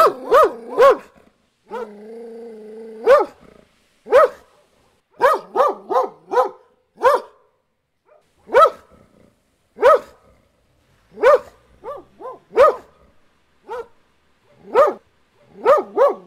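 A dog barking, at first in quick runs of three or four barks, then mostly in single barks about a second and a half apart. Near the start there is a drawn-out steady call lasting about a second.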